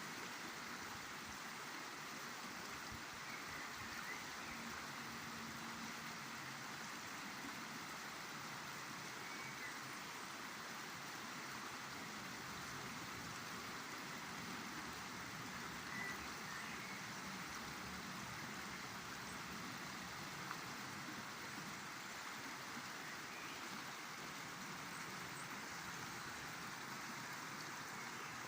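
River water flowing steadily, an even rushing sound with no change in level.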